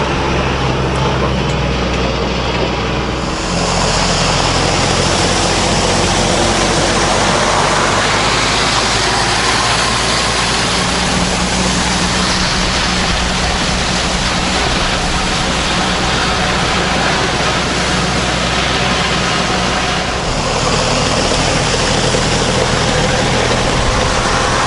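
Tractor engine running steadily, with its note changing about three seconds in and again near the end.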